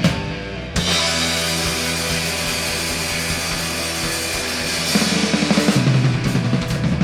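Live rock band holding a chord with ringing cymbals, the drummer playing a rapid fill about five seconds in, typical of a song's big ending.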